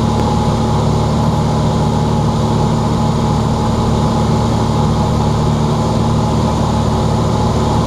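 Cessna 182's piston engine and propeller running steadily, heard from inside the cockpit as the plane flies the base leg of the landing pattern.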